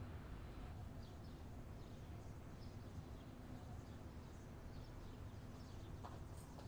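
Quiet ambience: a steady low rumble and hiss with faint, scattered bird chirps.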